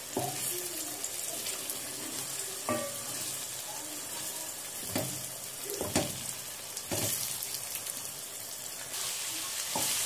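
Eggs and fried onions sizzling in a non-stick pot while a wooden spoon slowly stirs and turns them, knocking against the pot several times.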